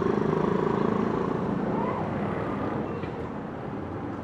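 A motor vehicle passing along the street, its engine hum loudest at first and fading away over the second half, over general city street noise.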